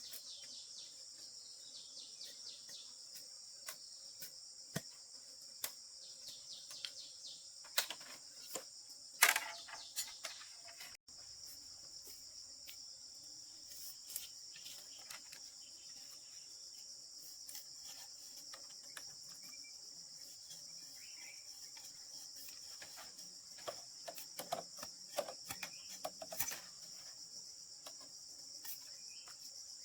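A steady high-pitched chorus of insects, with scattered knocks and taps throughout: the loudest, a sharp knock, about nine seconds in, and a quick run of knocks about three-quarters of the way through.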